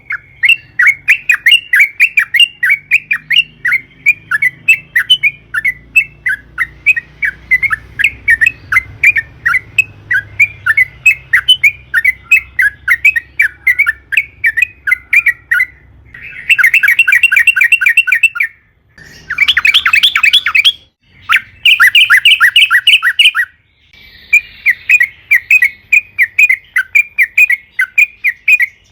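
Yellow-vented bulbul (trucukan) calling in a fast chatter of short repeated notes, several a second. Past the middle come three louder bursts of quicker, denser trilling with brief pauses between them, then the steady chatter resumes.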